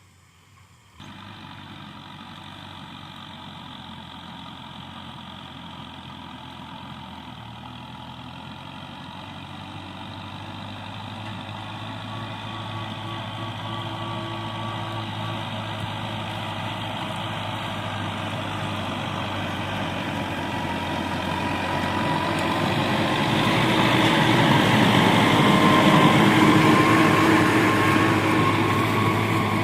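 Kubota tractor engine running while plowing, growing steadily louder as it comes closer, loudest about 26 seconds in and then easing off a little. It starts abruptly about a second in.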